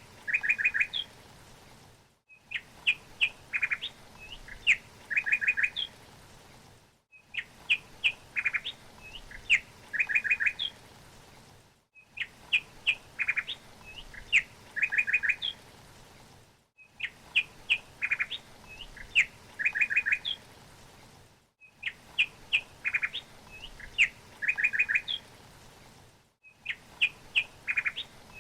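A songbird chirping: a few separate chirps followed by a quick trill, the same phrase repeating about every five seconds with a brief break of silence between repeats, as a looped recording. A faint steady hiss lies underneath.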